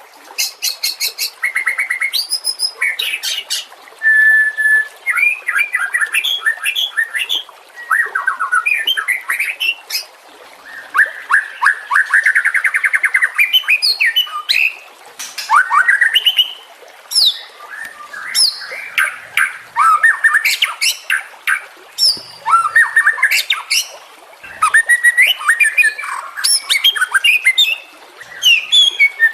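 White-rumped shama singing a rapid, varied string of phrases: clear whistles, fast trills, sliding notes and harsh chattering, broken by brief pauses.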